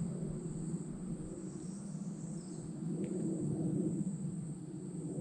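Insects, crickets by their sound, trilling in a steady high-pitched drone over a constant low, rough rushing noise.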